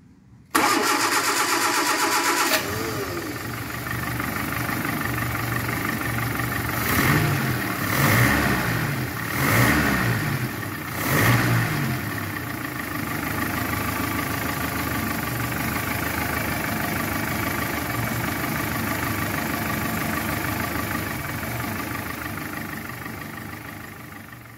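Rebuilt Beardmore taxi 211E four-cylinder petrol engine starting up: it cranks and catches within the first few seconds. It is blipped up and down four times, then settles into a steady idle.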